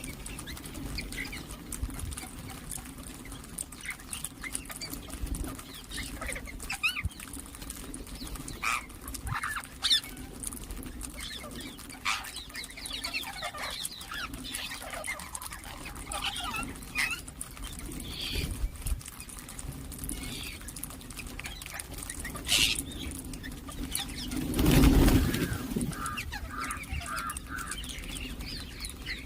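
Ringneck parakeets chirping and giving short calls, scattered throughout over a steady low hum. Near the end, a louder burst of noise lasting over a second stands out above the calls.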